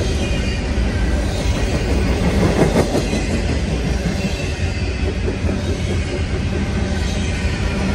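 A long intermodal freight train's cars rolling past at track speed: a steady, loud rumble of steel wheels on rail, with a thin high wheel squeal and a single knock about three seconds in.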